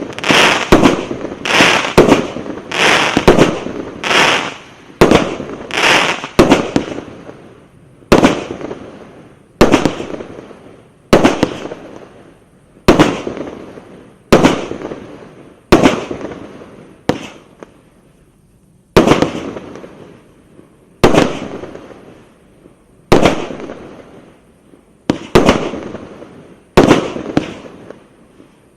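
Eurostar 'Supernova Box' firework cake firing shot after shot, each a sharp bang with a fading tail. The shots come quickly for the first several seconds, then slow to about one every two seconds.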